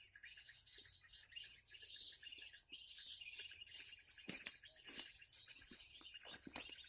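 Continuous fast, high chirping and trilling of small birds. Three sharp clicks cut through it in the second half, the loudest near the end.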